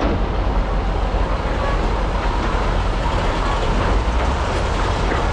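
Large hydraulic excavators, Komatsu PC395 and SANY SY485H, working with their diesel engines running under load: a steady, heavy, low rumble.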